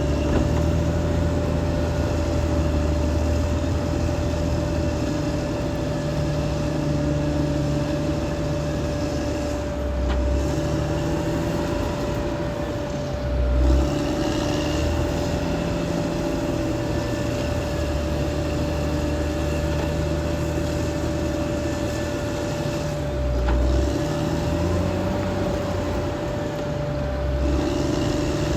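Caterpillar D6R XL bulldozer's diesel engine running under working load, its pitch rising and falling several times as the load changes, with a steady whine over it.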